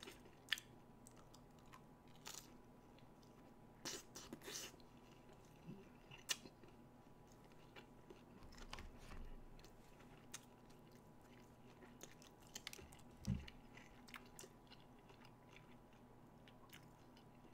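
Faint chewing of McDonald's chicken McNuggets, with soft mouth clicks and smacks at irregular intervals.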